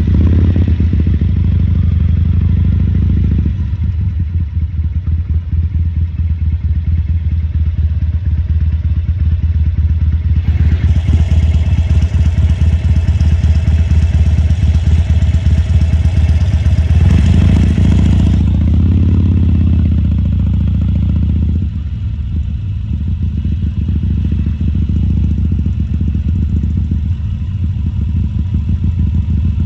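2014 Harley-Davidson Sportster XL1200C's air-cooled V-twin running with a steady low rumble. From about ten to eighteen seconds in, a loud hiss rises over it, and the engine note shifts a few seconds later.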